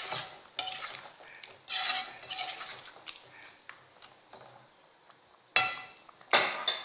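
A spoon stirring in a cooking pot, scraping and knocking against it in a few sharp clinks, the loudest two near the end.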